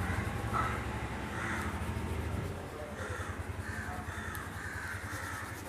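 Crows cawing several times in the background, over the soft rubbing of a crayon on paper.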